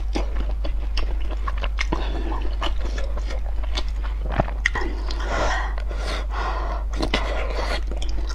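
Close-miked chewing and biting of broth-soaked food, many small wet clicks of the mouth, with a longer wet stretch about five seconds in.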